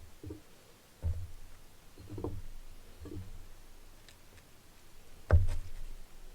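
Handling noise: several dull thumps, then one sharper, louder knock about five seconds in.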